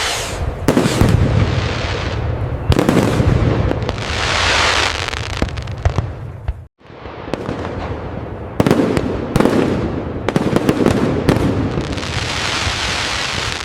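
Fireworks display: a continuous barrage of aerial bursts with crackling. There is a momentary break about seven seconds in, then the barrage carries on.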